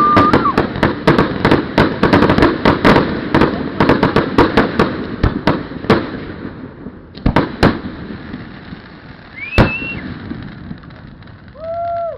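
Aerial fireworks going off: a dense, rapid crackle of many sharp reports for the first half, thinning out to a few single loud bangs, with a short rising whistle about two-thirds of the way through.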